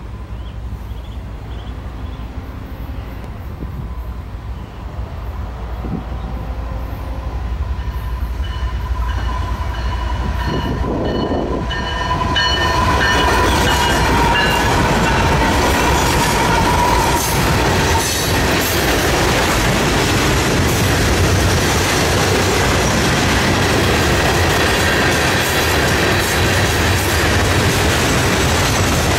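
A Florida East Coast Railway freight train approaching and passing close by. Its diesel locomotives sound a steady multi-note horn as they come up, and the train gets much louder as the locomotives reach the track side about twelve seconds in. After that comes a continuous rumble and clickety-clack of wheels as a long line of hopper cars rolls past.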